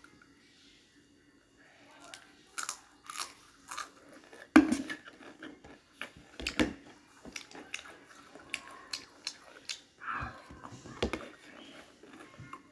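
Someone biting and chewing crunchy Taro snack chips: a run of sharp crunches that starts about two seconds in, with the loudest bite about four and a half seconds in.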